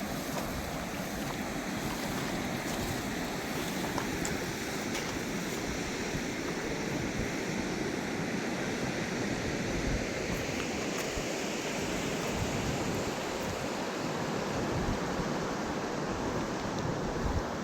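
A fast mountain river rushing, a steady, unbroken water noise.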